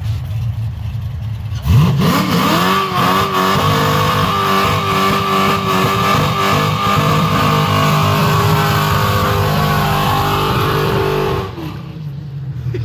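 Car engine, low at first, then revving up sharply with a rising pitch about two seconds in and held at a steady high pitch, falling away near the end.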